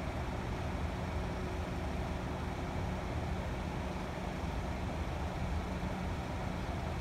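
Steady low rumble of a car running at idle, heard from inside the car, as it creeps slowly forward in a line of traffic.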